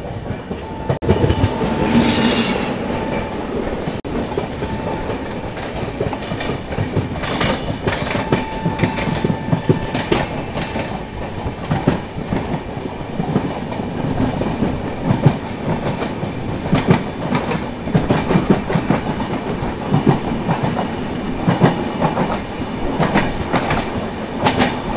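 Express train coach running along the track: a steady rumble with wheels clicking over rail joints. A brief high-pitched wheel squeal comes about two seconds in.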